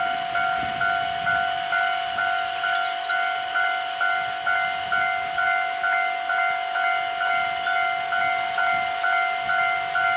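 Railway level-crossing alarm ringing steadily, a pitched ding repeating about twice a second, each strike fading before the next.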